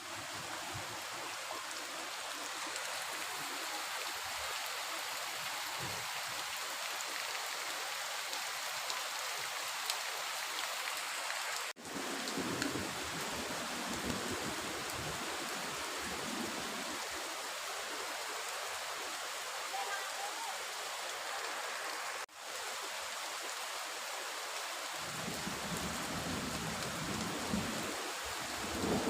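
Heavy rain falling steadily, an even hiss of rain on surfaces. It cuts out for an instant twice, about a third and two-thirds of the way through.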